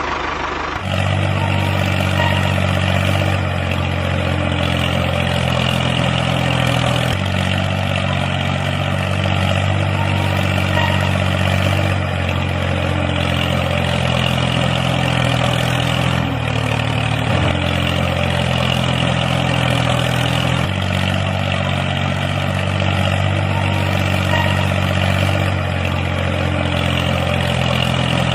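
Engine idling steadily, with a low even pitch that shifts abruptly a few times, as if cut between takes.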